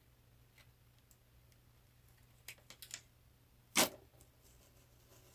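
Sparse light clicks and taps of small hard pieces being handled on a work surface, with one sharper click just under four seconds in.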